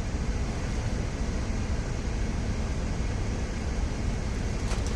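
Steady low rumble with a hiss over it, the idling engine of a parked semi-truck heard from inside the cab, with a brief click near the end.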